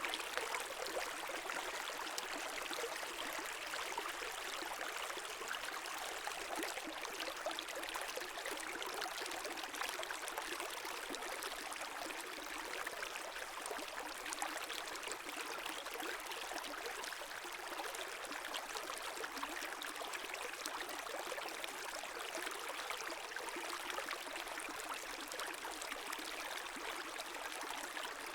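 A small stream's water babbling and rushing steadily over stones, an even splashing and gurgling hiss with no pauses.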